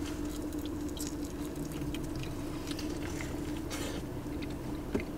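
Close-miked chewing and wet mouth sounds of people eating sauced chicken wings and tenders, a scatter of short irregular clicks, over a steady low hum.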